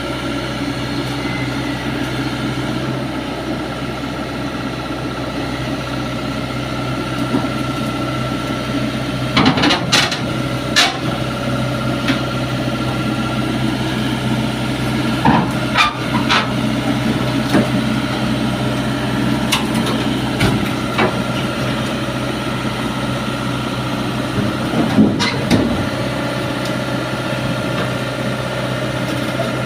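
Diesel engine of a TZCO TZ60 mini excavator running steadily while the machine comes down off a truck, with sharp metal clanks and knocks scattered from about a third of the way in, as its steel tracks and bucket meet the truck deck and ramps.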